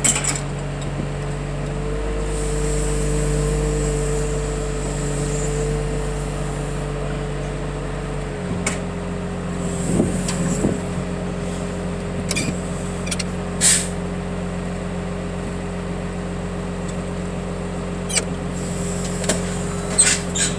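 A heavy vehicle's engine running steadily at idle, its note changing about eight seconds in, with a few sharp clicks and knocks over it.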